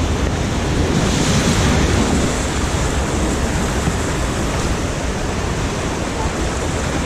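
River water rushing around a raft, a loud, steady wash of noise, with wind rumbling on the microphone.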